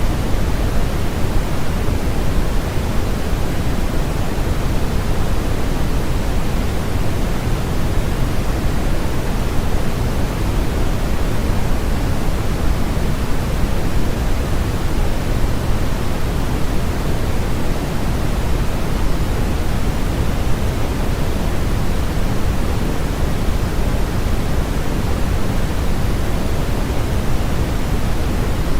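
Steady, unchanging generated noise used as a sleep and masking sound: a constant hiss with most of its energy in the low end, weighted more like pink noise than flat white noise.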